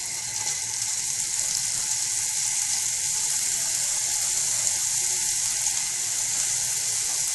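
Diced pancetta and sliced shallot sizzling in a little oil in a small frying pan: a steady high hiss that grows a little louder over the first couple of seconds as more pancetta goes in.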